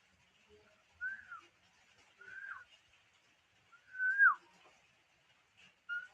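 Pet bird whistling three clear separate notes, each sliding down at the end, the third longest and loudest. A quick run of short repeated notes begins at the very end.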